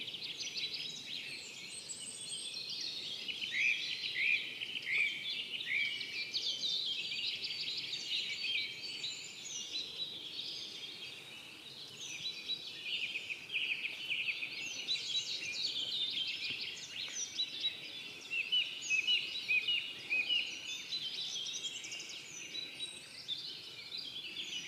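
A chorus of many songbirds singing at once, with overlapping chirps, trills and quick falling notes and no pause.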